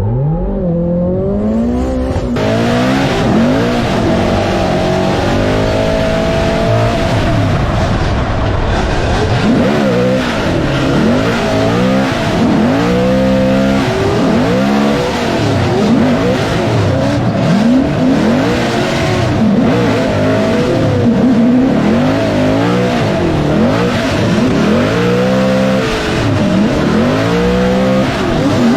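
Car engine revving hard, its pitch rising and falling again and again, with a loud hiss joining about two seconds in.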